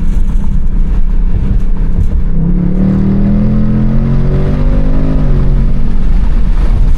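Car engine running loud with a low rumble; its pitch climbs about two and a half seconds in, holds, then drops back about five seconds in, as in accelerating and easing off.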